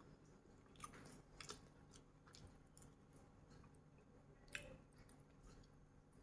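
Faint chewing with a few soft, scattered mouth clicks.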